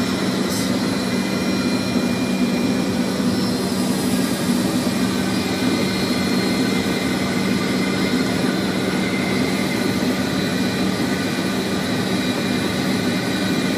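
Steady flight-deck noise of a Fokker 100 jet airliner on approach: a continuous hum of airflow and engines with a few constant tones running through it.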